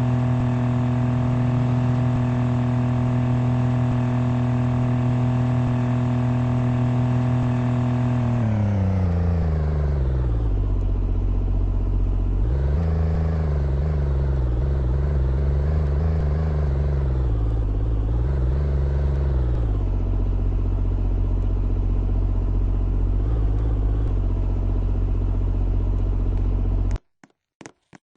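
Car engine running at a steady pitch, then dropping smoothly over about two seconds as the car slows, rising and falling a few times before settling into a low drone. The sound cuts off abruptly about a second before the end.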